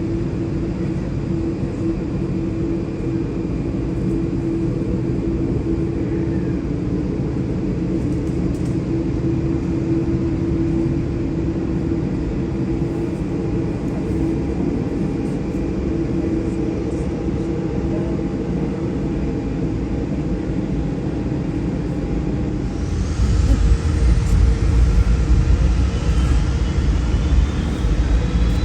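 Jet airliner engines running with a steady rumble and hum; about 23 s in the rumble grows louder and a whine starts rising in pitch.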